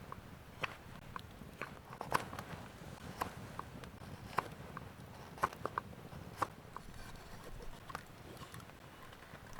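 A knife cutting and scraping into wood, hollowing out a kuksa bowl: irregular sharp cuts, about one or two a second.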